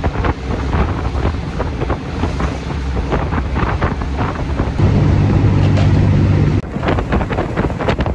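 Train ride heard from inside a third-class carriage: a steady rumble with constant rattling and clattering, and wind buffeting the microphone. About five seconds in, a steady low drone takes over for a couple of seconds, then the rattling ride noise returns.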